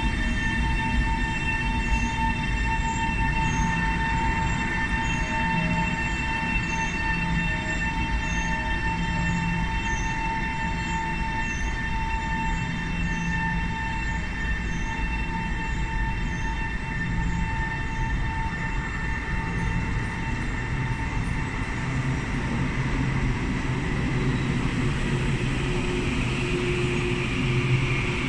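Electric commuter trains in an underground station: a steady electrical hum and whine from a train standing at the platform, with a second train's rumble growing as it approaches and pulls in alongside near the end.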